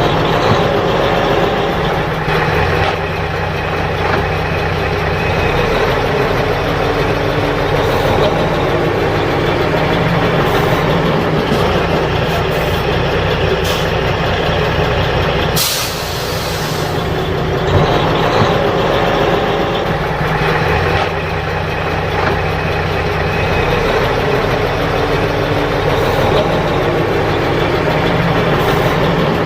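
Sand-laden dump truck's diesel engine running steadily as it labours over a rocky track, with a few sharp knocks, the loudest about sixteen seconds in.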